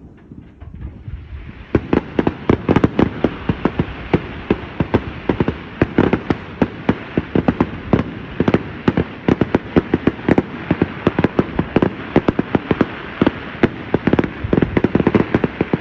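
Fireworks going off in a dense, rapid string of sharp bangs and crackles, several a second. They start about two seconds in after a quieter moment and keep on without a break.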